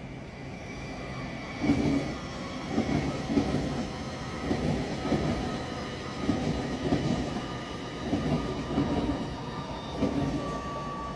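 Train passing over rail joints, its wheels clunking in regular pairs under a steady motor whine.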